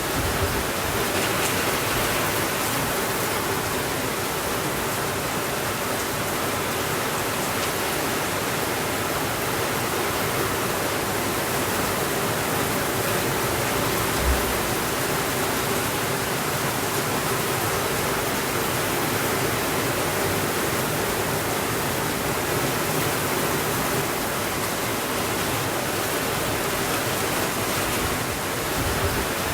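Steady heavy rainfall, an even hiss with no thunder. One brief soft low thump about halfway through.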